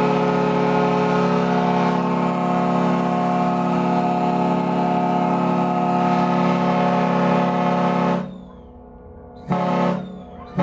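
Riverboat's horn sounding one long, steady blast of about nine seconds, followed by short blasts of the same note near the end.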